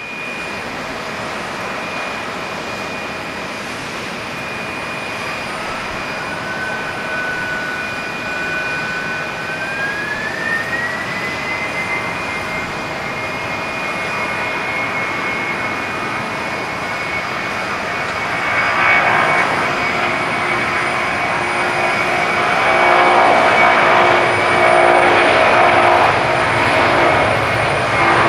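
Boeing 767-300 twin jet engines spooling up for takeoff: a steady whine that rises in pitch in two steps over jet noise. From about two-thirds of the way in, the engine noise grows louder and fuller.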